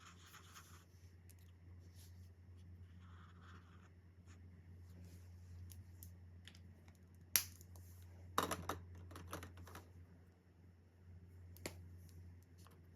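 Alcohol marker strokes scratching softly on coloring-book paper, with a sharp click about seven seconds in and a quick run of clicks and taps just after, and one more near the end. A steady low hum runs underneath.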